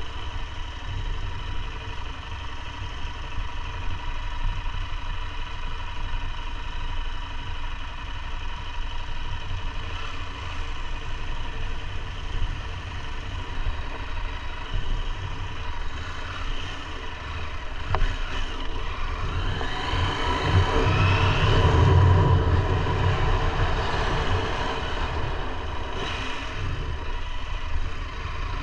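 KTM 890 Adventure R's parallel-twin engine running under way, with a steady low rumble; it grows louder with rising pitch from about twenty seconds in, then settles again.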